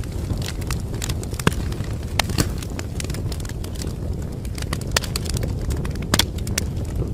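Wood fire crackling: irregular sharp pops and snaps over a steady low rumble of burning, with the loudest pops about a second and a half in and about six seconds in.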